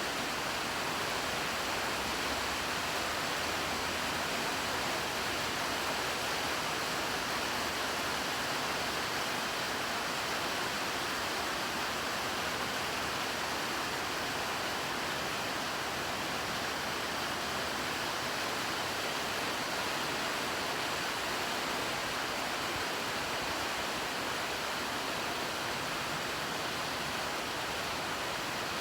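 Steady rain falling: an even, unbroken hiss with no single drops or drips standing out.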